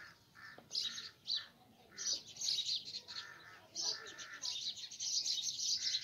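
Birds chirping and calling in short, high, repeated bursts, busier and louder from about a third of the way in.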